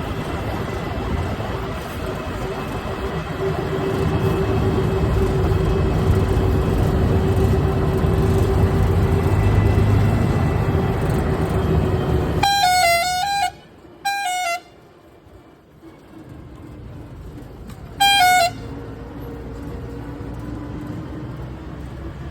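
A heavy vehicle's engine runs loudly under load with a steady hum, then drops away suddenly about twelve seconds in. A vehicle horn sounds three short times with a wavering pitch.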